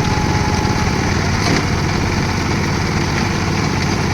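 Concrete mixer's engine running steadily with a dense low rumble.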